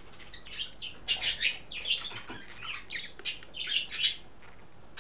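A small bird chirping in quick, short, high calls over and over, stopping about four seconds in.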